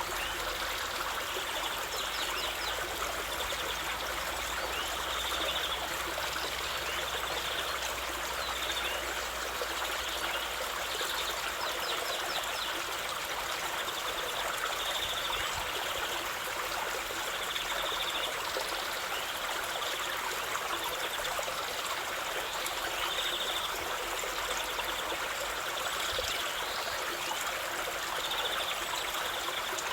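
A stream running steadily, trickling and babbling, with short high sounds recurring every second or two.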